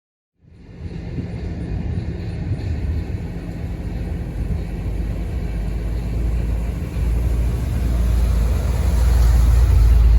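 1980 Chevrolet Corvette L82's 350 V8 engine running with a steady low rumble, growing louder about seven seconds in and again near the end.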